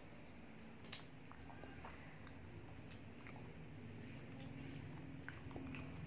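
A person chewing a mouthful of dahi bhalla, soft lentil dumplings in yogurt, with faint close mouth sounds and a few small clicks. There is one sharp click about a second in, over a low steady hum.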